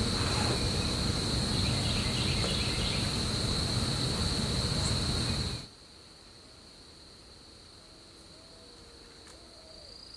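An insect's steady, unbroken high-pitched buzzing trill. For the first half it sits under a loud rushing noise that cuts off abruptly a little past the middle.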